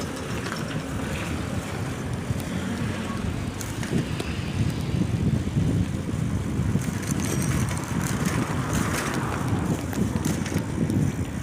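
Wind buffeting the microphone and road rumble from a bicycle being ridden, with scattered small clicks and rattles. A passing vehicle's hiss swells and fades about nine seconds in.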